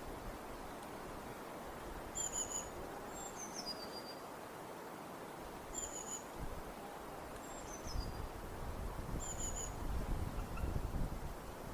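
Birds calling outdoors: short high chirps repeated about every three and a half seconds, with a falling whistle between them, over a steady outdoor hiss. A low rumble comes in about two thirds of the way through.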